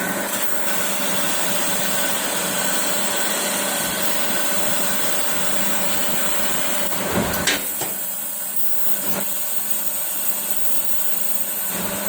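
CNC laser cutting machine running on mild steel plate: a steady hiss with a constant machine hum, broken by a couple of brief knocks about seven and nine seconds in.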